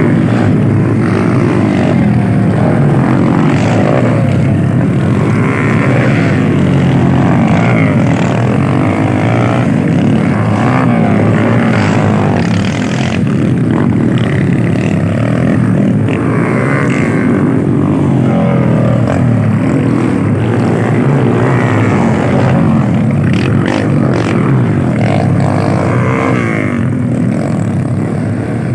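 Motocross motorcycle engines running hard and revving, loud and continuous, with the pitch rising and falling throughout.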